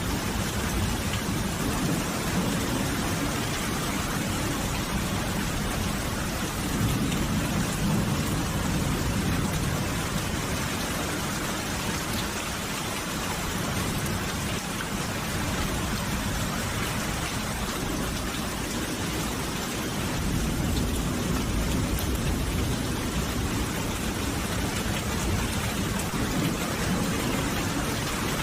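Steady rain falling, an even hiss, with a low rumble underneath that swells twice.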